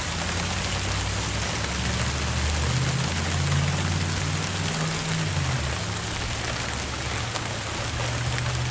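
Steady rain falling, a constant hiss with faint drop clicks, over a low droning hum that shifts in pitch midway.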